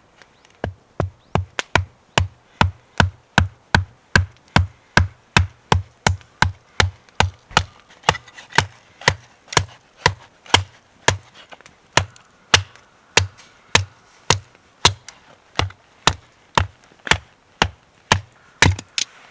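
Steady rhythmic chopping strikes, about two a second, each a sharp knock with a dull thud beneath it.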